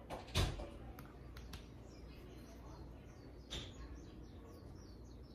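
Faint background bird chirps, short and falling, scattered throughout. A sharp knock comes about half a second in, and a softer click at about three and a half seconds.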